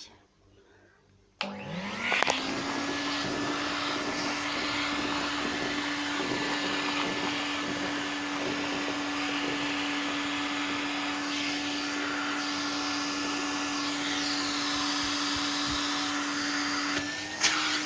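Toy Hetty vacuum cleaner's small electric motor switched on about a second and a half in, its whine rising as it spins up and then running steadily.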